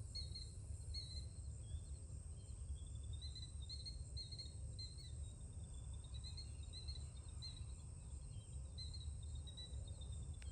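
Birds chirping: a run of short chirps about three a second, then a wavering chirping line, over a steady low rumble.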